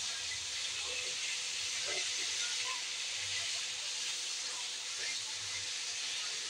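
Chicken necks sizzling steadily in hot oil and sauce in a wok while tongs turn them.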